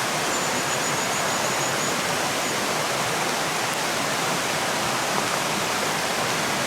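Waterfall on a river gorge, its water rushing down steadily in a loud, even roar. A faint high-pitched trill of short notes sounds in the first two seconds.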